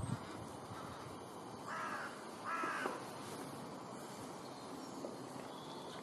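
Two short, harsh bird calls, a little under a second apart, over faint outdoor background noise.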